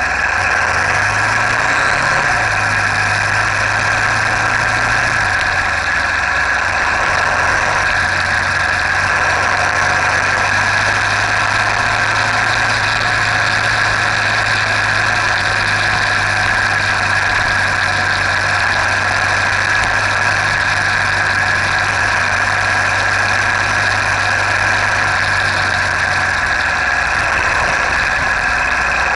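Motorcycle engine running steadily on the road, a constant low drone under a loud, even rush of noise, with a brief change of pitch about two seconds in.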